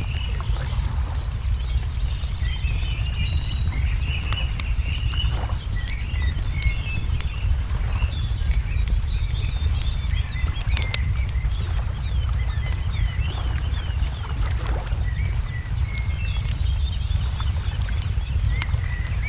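Layered fireside ambience: a wood fire crackling with frequent sharp pops, small birds chirping and whistling over it, including a run of short falling notes about two thirds of the way through, all over a steady low rumble.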